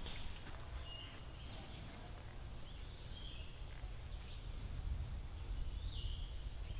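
Outdoor ambience: a bird chirps briefly about three times over a low, steady rumble of wind and background noise.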